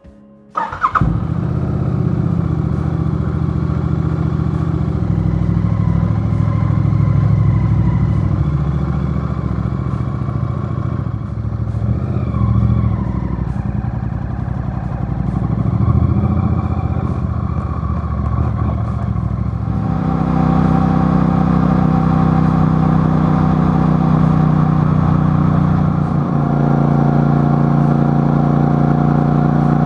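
Motor vehicle engine running loudly, starting suddenly about a second in, its pitch rising and falling gently with light revving; at about 20 s the note shifts to a steadier, slightly higher-pitched drone.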